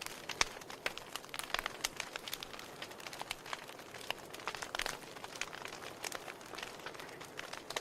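Wood fire burning in a fireplace: logs crackling with frequent irregular pops and snaps over a soft hiss of flame.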